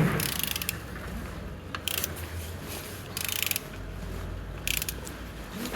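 A ratchet wrench clicking in four short bursts as a Renault K9K 1.5 dCi diesel engine is turned over by hand for a compression check. The engine turns well, with compression on all cylinders.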